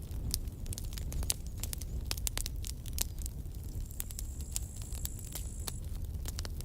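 Wood campfire crackling: irregular sharp pops and snaps of burning wood over a low, steady rumble.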